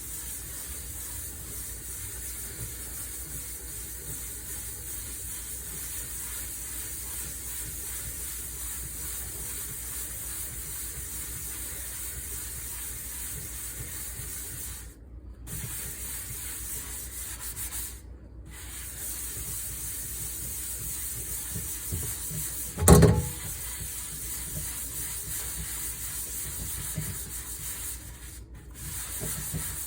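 Steady scrubbing of cookware by hand, broken by three short pauses, with one sharp, loud knock about 23 seconds in.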